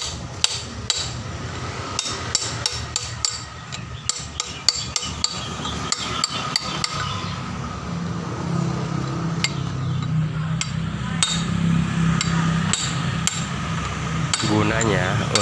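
Irregular sharp metallic knocks and clinks of hand tools striking the adjuster of a Hino Ranger truck's differential as it is turned during setting, with a steady low hum under the later strikes.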